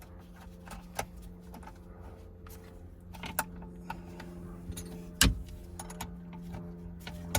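Metal hardware clinking and tapping as a shifter cable end and bolt are fitted to the shifter bracket: a few separate sharp clicks, the loudest about five seconds in, over a steady low hum.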